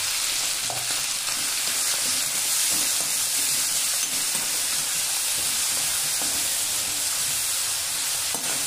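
Fresh chopped fenugreek leaves sizzling in hot oil in a steel kadhai while being stirred with a steel spoon: a steady frying hiss.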